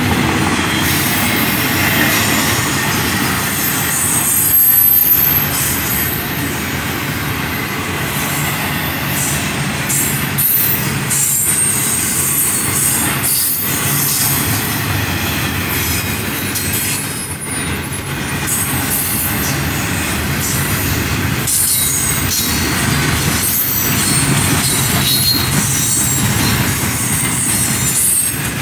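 Double-stack intermodal freight train's well cars rolling past: a steady rumble of steel wheels on rail, with high-pitched wheel squeal coming and going.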